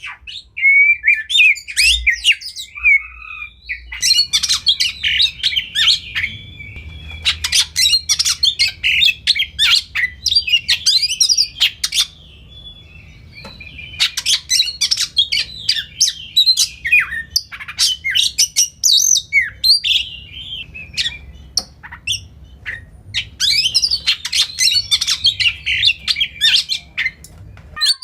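Oriental magpie-robin (kacer) singing a fast, varied song of sharp whistles, harsh chattering notes and rapid clicking bursts, in long runs broken by short pauses. A faint low hum sits under it from a few seconds in.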